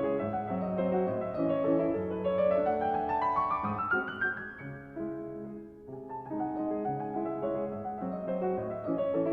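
Background piano music: a gentle melody with a quick rising run of notes about three seconds in, a brief quieter pause near the middle, then the melody resumes.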